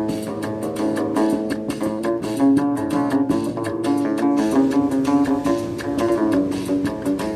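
A plucked string instrument playing a quick melody of many short picked notes over a held lower note.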